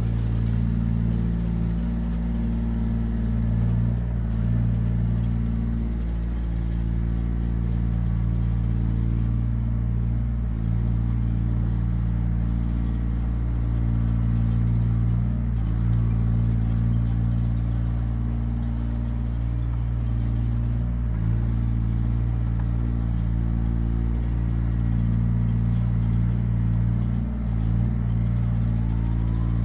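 Yanmar ViO17 mini excavator's three-cylinder diesel engine running steadily, its note dipping briefly every five or six seconds.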